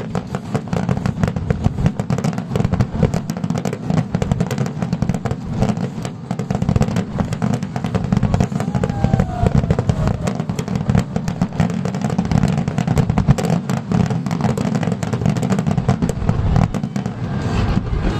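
Fireworks barrage: a dense, unbroken string of rapid bangs and crackles over a low rumble, as in a star mine fired shell after shell.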